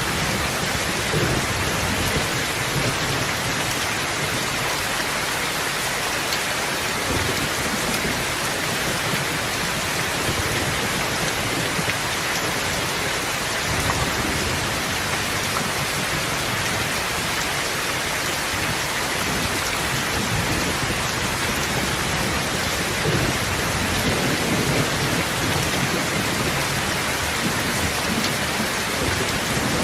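Steady rain falling in a dense, even hiss, with slow low rumbles swelling underneath now and then, as of thunder.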